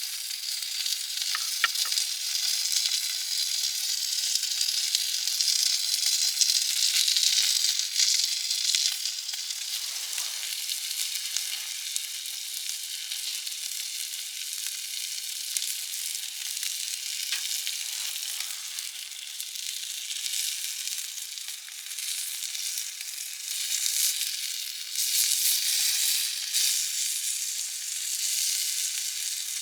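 Steady sizzling hiss with scattered small crackles from a campfire with a grill over it, running on without a break.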